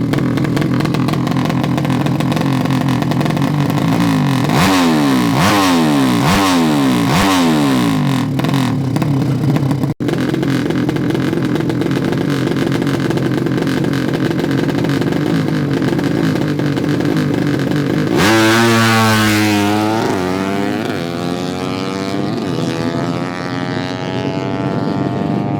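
Racing drag-bike motorcycle engines running hard, with three quick revs a few seconds in. Near the end a bike goes full throttle with its pitch climbing.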